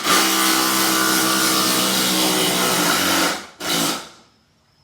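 12-volt cordless impact driver hammering a large fastener into wood. It runs steadily for about three and a half seconds, stops, then gives a short final burst about a second later.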